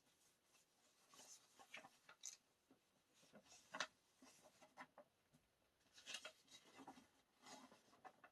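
Faint, scattered rustling and light taps of paper and card being handled, like the pages of an album photobook being turned.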